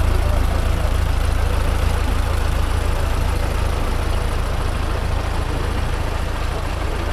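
An engine running steadily at idle, with a constant low rumble.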